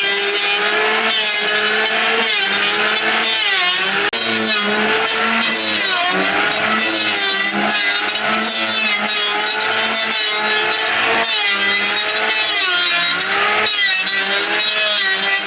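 A small engine running at high revs, its pitch dipping and recovering about once a second as if under changing load.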